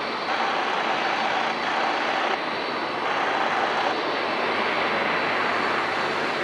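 Jet airliner engines heard from beside the runway: a steady, loud, broad noise with no sharp events.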